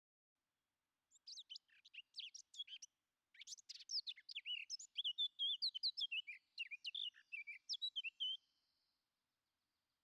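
A bird singing a quick run of chirps and warbling whistles. It starts about a second in, breaks briefly near three seconds, then runs on busier and stops near the end.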